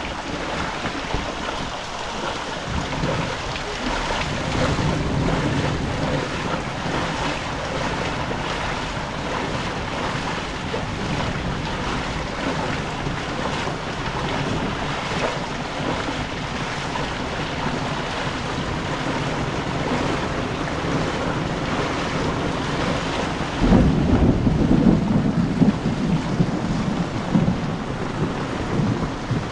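Heavy rain falling in a steady hiss. About 24 seconds in, a low rumble of thunder sets in and keeps rolling.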